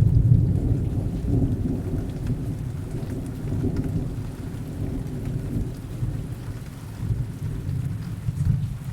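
Steady rain with a deep rolling thunder rumble. The thunder is loudest at the start, slowly fades, and swells briefly again near the end.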